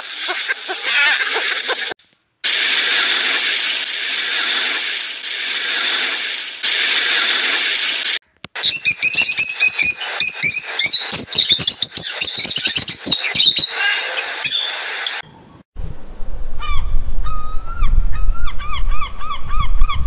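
A run of separate bird clips cut together. First African penguins braying. Midway, a rainbow lorikeet gives rapid, high chattering screeches. Near the end, kelp gulls call again and again over wind rumbling on the microphone.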